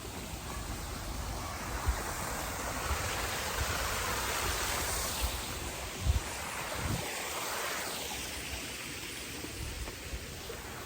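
Steady rush of flowing water, swelling in the middle and easing off near the end, with a few short low thumps, the loudest about six seconds in.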